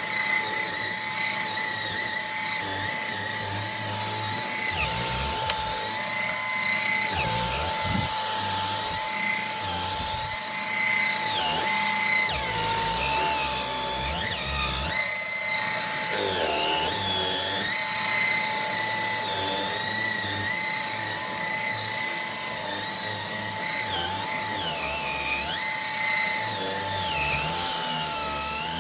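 Dyson V10 cordless vacuum running on its lowest power setting with the mini motorised brush head working into a fabric dog bed: a steady high motor whine, with a higher brush-bar note that wavers up and down as the head digs into the bedding.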